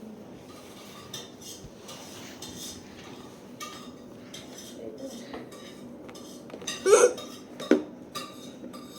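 Light clinking and clattering of small hard objects being handled, in scattered short clicks, with a louder brief sound about seven seconds in and a shorter one just after.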